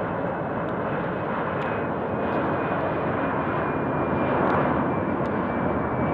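Jet airliner departing: a steady rush of engine noise with a faint high whine that drops slightly in pitch, growing a little louder to a peak about four and a half seconds in.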